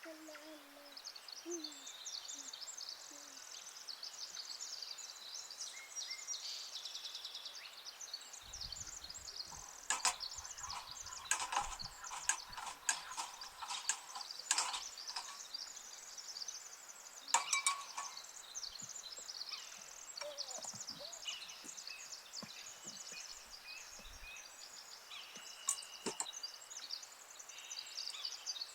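Small birds chirping and singing throughout, with a low hooting call at the very start. A run of sharp knocks and clatter comes from about ten seconds in to the middle, with another knock a little later.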